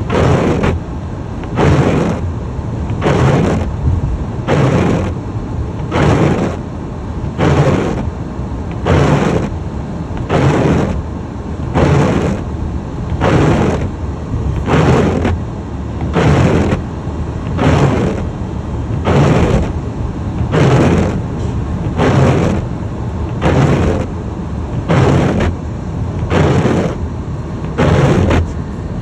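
Car windshield wipers sweeping at a steady pace, a swish about every second and a half, over the steady rumble of the car driving on a snowy road.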